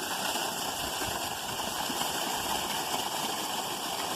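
Creek water running: a steady rushing of flowing water.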